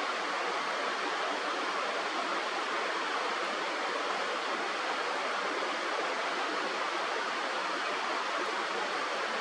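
Steady, unbroken rushing of a river's flowing water.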